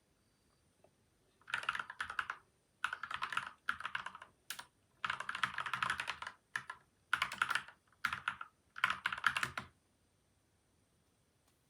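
Typing on a PCL87 mechanical keyboard with lubed switches and stabilisers and a taped, foam-dampened case: bursts of quick keystrokes with short pauses between them. The typing starts a second or so in and stops near the end.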